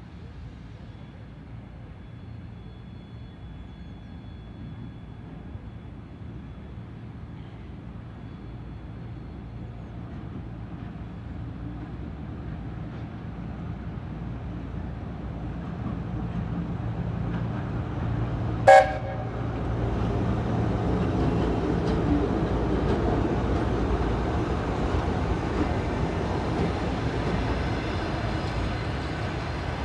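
VL10 electric locomotive hauling a passenger train as it approaches, its running rumble growing steadily louder. About two-thirds of the way through it gives one very short, sharp blast on its new whistle.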